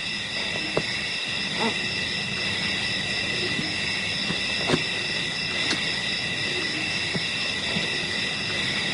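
Steady chorus of insects, likely cicadas or crickets, buzzing in several high, even bands. A few faint, brief animal calls sound over it.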